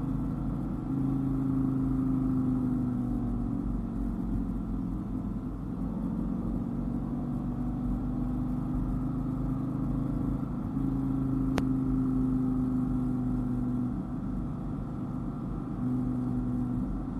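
Dodge Viper GTS's V10 engine running at cruising revs over road rumble. Its low hum rises and falls several times as the throttle changes, and there is one sharp click about two-thirds of the way through.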